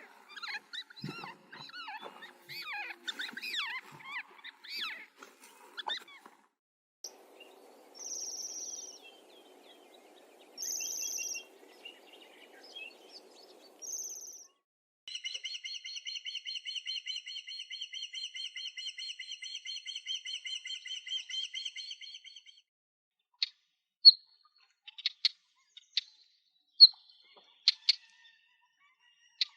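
Bird calls from several species in successive recordings: first a jumble of chirps and song, then a low hum with three short high squeaks, then a long fast buzzy trill of about eight notes a second, and finally loud, separate sharp chip notes.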